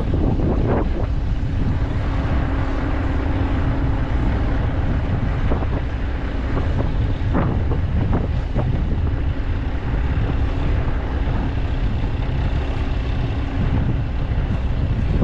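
Heavy diesel harvest machinery running steadily with a low rumble and a held hum, with wind buffeting the microphone and a few brief crackles.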